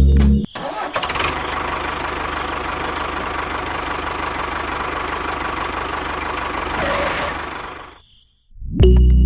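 An engine running steadily with a rapid low knocking pulse, fading away near the end.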